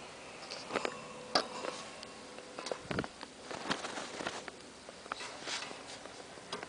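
Vintage Sears box fan's electric motor humming faintly and steadily, with scattered light clicks and taps over it.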